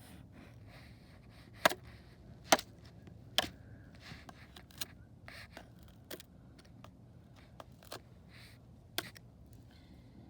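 Sharp cracks and taps of ice being struck and broken: three loud ones between about one and a half and three and a half seconds in, then fainter, scattered ones.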